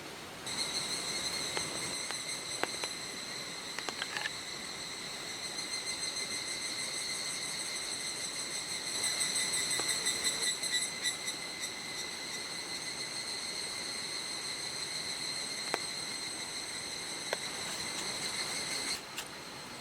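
An insect, likely a cricket, trilling steadily in a fine, even pulse at a high pitch, starting just after the beginning and cutting off shortly before the end. Underneath is a steady hiss with a few sharp ticks.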